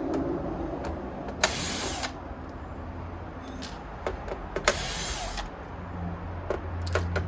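Two short whirs of a small electric screwdriver, about three seconds apart, backing out screws, with small clicks and knocks of parts being handled in between.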